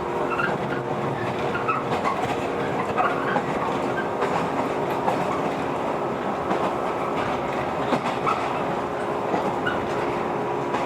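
JR 115 series electric train running between stations, heard from inside the car: a steady rumble with a few held tones from the running gear, and light irregular clicking of the wheels over the rails.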